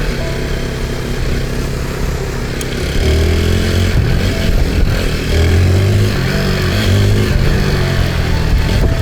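Motorcycle engine running while under way, its pitch rising and falling with the throttle and its level going up about three seconds in.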